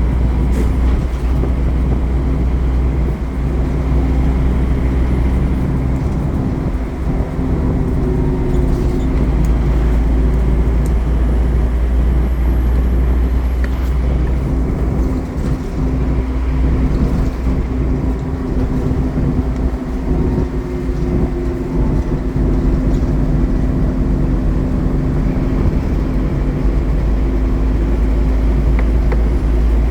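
Scania N230UD Omnicity double-decker bus under way: its five-cylinder diesel engine drones steadily at a low pitch, with a few faint rattles and clicks from the body.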